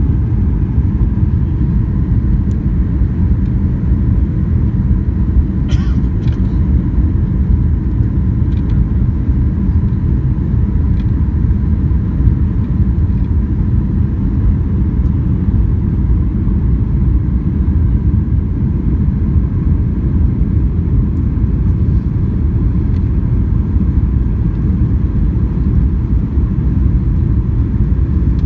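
Airliner cabin noise in flight: a steady, loud, low rumble of jet engines and airflow, with a faint steady hum above it and a short click about six seconds in.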